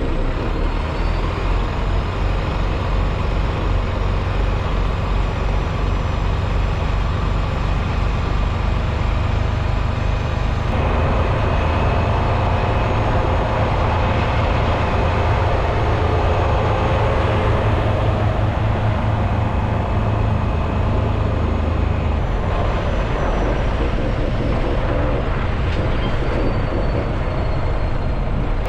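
Freightliner semi-truck's diesel engine running with a steady low rumble and road noise, as heard from the moving rig. The sound shifts abruptly about 11 and 22 seconds in.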